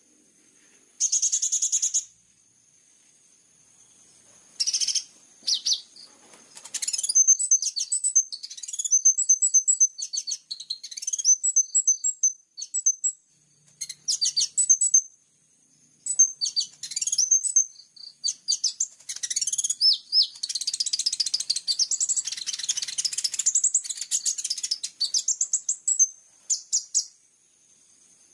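Small songbird chirping and trilling in high, fast bursts with short pauses, one long dense trill run a little past two-thirds of the way through, the kind of fill-in song used in a master recording to train kolibri ninja sunbirds.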